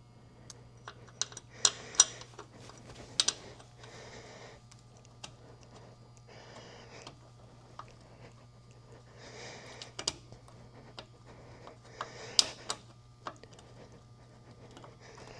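Scattered sharp metal clicks and knocks as a compressed shock absorber's mounting bolts are worked into the holes of a car's lower wishbone, loudest about two seconds in and again near the end.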